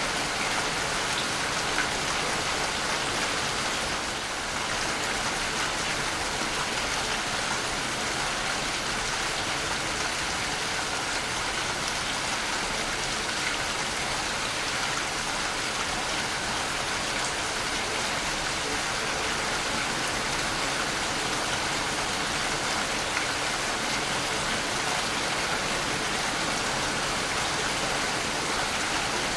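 Waterfall: a steady, even rush and splash of falling water.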